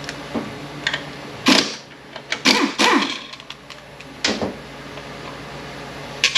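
Hand tools and small metal parts knocking and clinking as 10 mm bolts come out of a transmission's baffle: a few separate sharp knocks with brief metallic ringing, the loudest cluster in the middle.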